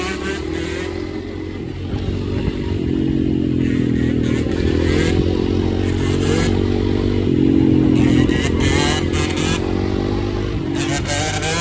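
Dirt bike engine running and revving up and down, its pitch rising and falling repeatedly, loudest about eight seconds in.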